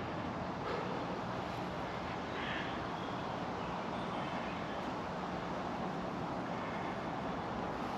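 Steady outdoor background noise with no distinct events; the bow drill's sawing strokes have stopped.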